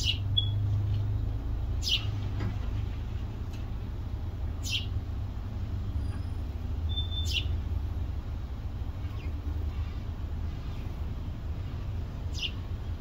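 A bird's short, high chirps, each a quick downward sweep, repeated about every two to three seconds, over a steady low rumble.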